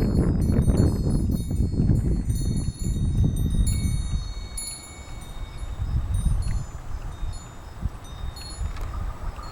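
Strong gusting wind buffeting the microphone, heavy for the first few seconds and then easing off, with wind chimes ringing irregularly above it.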